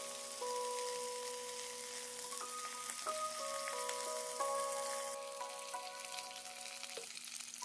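Chicken and vegetable skewers shallow-frying in oil in a cast-iron skillet: a steady sizzle that eases slightly about five seconds in. Soft background music of held notes plays along with it.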